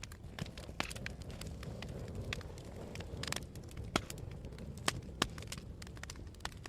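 Wood campfire crackling, with irregular sharp pops and snaps over a low steady rumble; the loudest snaps come about four and five seconds in.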